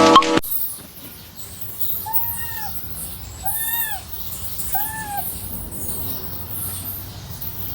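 A domestic cat meowing three times, each meow a short call that rises and falls in pitch, about a second apart. A loud pitched sound cuts off abruptly just after the start.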